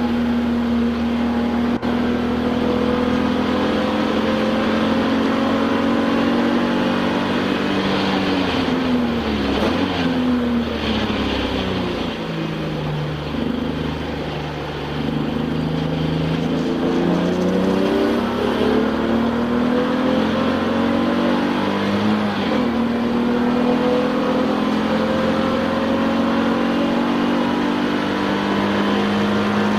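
Touring race car's engine heard from inside the car, held at high revs, then falling in pitch about a third of the way in as the car slows, running lower and a little quieter around the middle, and climbing back to high revs again.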